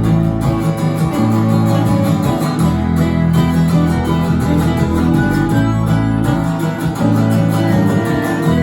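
Guitar-led instrumental music with no singing, over sustained low bass notes that change every second or so.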